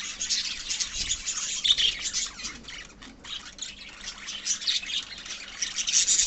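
A flock of small pet parrots chirping and chattering at once, many short high chirps overlapping, with a brief lull about three seconds in.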